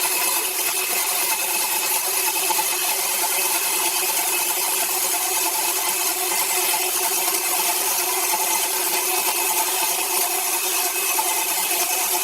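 Power saw cutting through wood, running steadily with a constant hum under the hiss of the cut.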